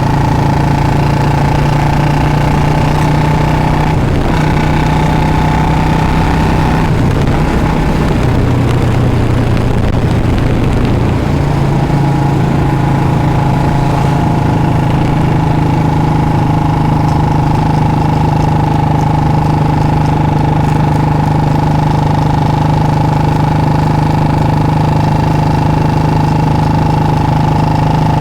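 Royal Enfield Bullet 350 single-cylinder engine running loud through a free-flow C-bend pipe and short Punjab silencer while riding. The engine note holds steady, drops lower for a few seconds about a third of the way in, then comes back up and holds steady again.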